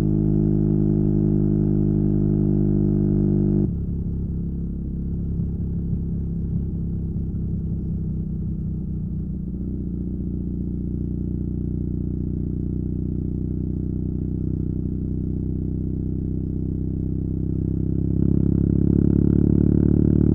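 BMW R nineT's air/oil-cooled boxer twin, fitted with a Competition Werkes slip-on exhaust, running under way. The engine note drops abruptly a few seconds in, holds steady at a lower level, and builds again near the end.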